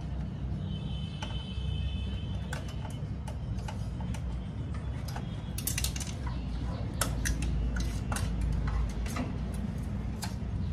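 Irregular small metallic clicks and taps of tools and parts being handled while working on a photocopier, over a steady low hum. The clicks come more thickly a little past the middle.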